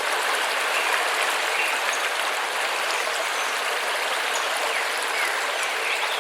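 Waterfall rushing: a steady, loud hiss of falling and splashing water, with a few faint bird chirps over it.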